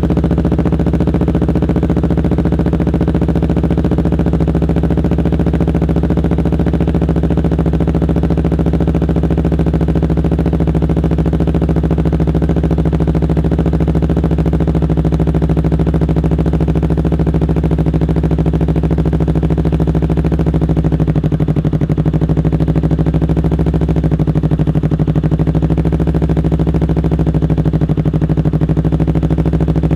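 Kawasaki Ninja 250 FI's parallel-twin engine idling steadily.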